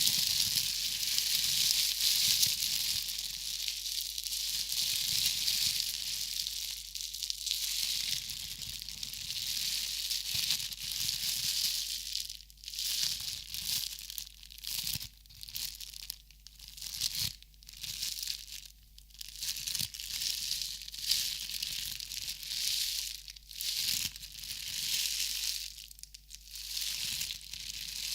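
Crinkling and rustling of handled crinkly material, hissy and crackly. It runs continuously for the first half, then goes on in short separate strokes about a second apart.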